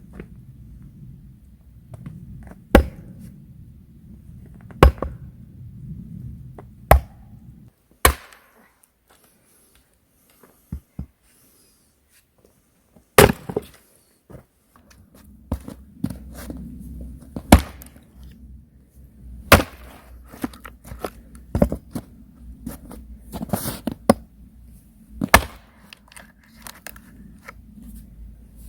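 Sharp single knocks of a tool striking wood, about one every two seconds with a pause of several seconds in the middle, over a low steady rumble that drops away during the pause.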